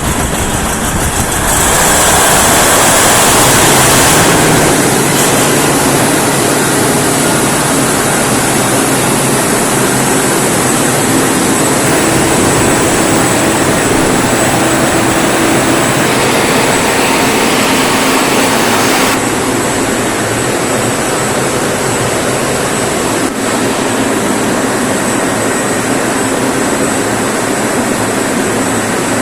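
Large Mitsubishi 16-cylinder V diesel generator set running loudly and steadily at its 1500 rpm governed speed, with a thin steady high whine over the engine noise. It swells a couple of seconds in, and the hiss in the upper range falls away about two-thirds of the way through.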